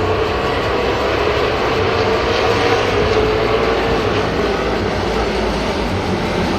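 Trans-Am V8 race cars running past as a steady, dense engine roar.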